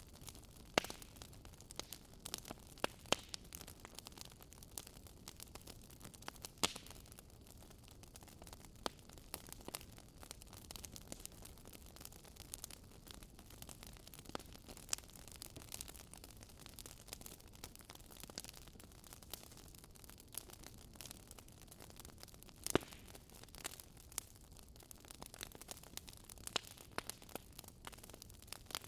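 Wood campfire crackling, with irregular sharp pops and snaps, a few of them loud, over a steady low rush of a river.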